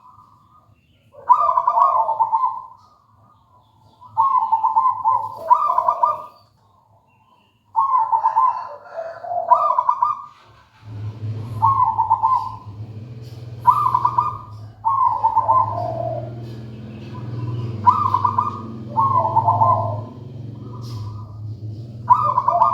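Zebra dove (perkutut) cooing: short coo phrases repeated about every one to two seconds. A steady low hum comes in about halfway through.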